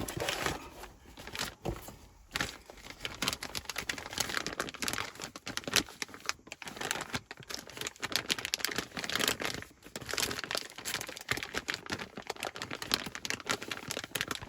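Packaging rustling and crinkling as a new turn signal switch is taken out of its box and wrapping, with irregular crackles and brief tearing.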